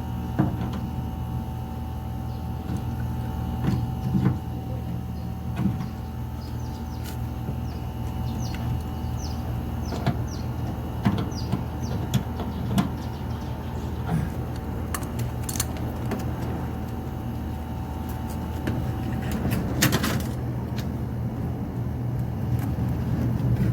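Air-conditioner outdoor unit running with a steady hum, with scattered metallic clicks and taps over it and a short burst of hiss about twenty seconds in.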